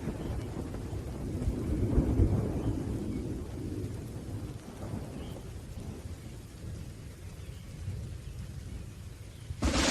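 Thunderstorm: thunder rumbling low over steady rain, loudest about two seconds in and then fading away. A sudden loud crash of thunder breaks in just before the end.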